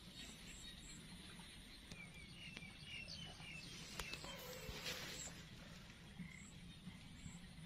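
Quiet outdoor ambience: a few short, high bird chirps about two to three seconds in, over a low steady hum, with a click and a brief rustling hiss a little past the middle.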